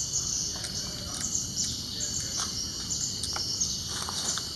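A chorus of insects making a steady high buzz that swells and fades in short pulses, with a few faint sharp ticks.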